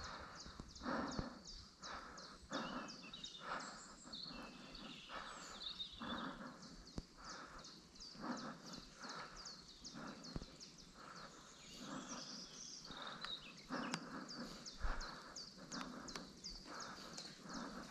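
Woodland birdsong: one bird repeats a short high chirp about three times a second, and another sings a few brief warbling phrases. Soft, irregular rustling sits underneath.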